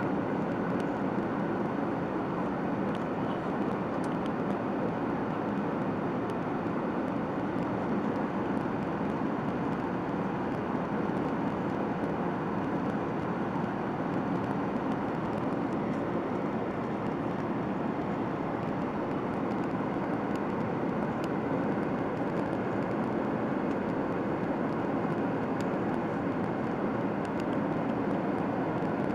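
Boeing 737-800 with CFM56-7B turbofans in flight on approach, a steady, unchanging rush of engine and airflow noise.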